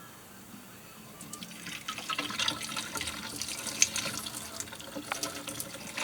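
Hot water being poured off a pot of boiled cauliflower to drain it, splashing unevenly; the pouring starts about a second and a half in.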